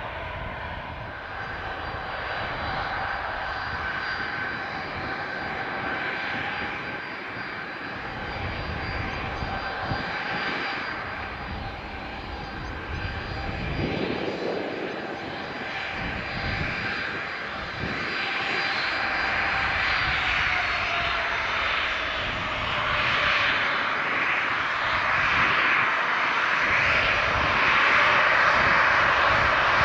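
Jet airliner's engines: a rushing roar with a high whine whose tones slide down in pitch about two-thirds of the way through, growing louder toward the end.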